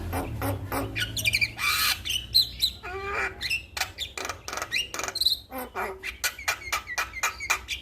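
Male Javan myna (jalak kebo) singing a busy, varied song: rapid clicks and harsh notes mixed with short sliding whistles.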